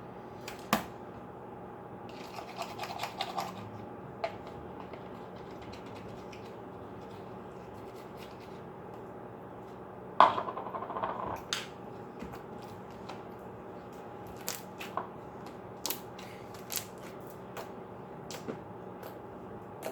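Slime being scraped out of a bowl and handled: scattered small clicks and scrapes, with a louder clatter about ten seconds in, over a steady faint hum.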